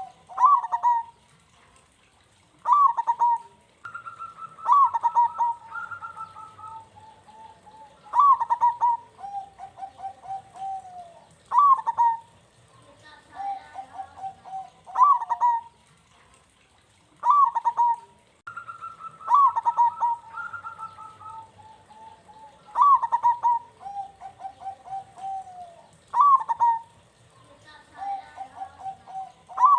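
Zebra dove (perkutut) cooing in repeated phrases about every one to three seconds. Each phrase is a few sharp clipped notes followed by a rolling, trilled coo.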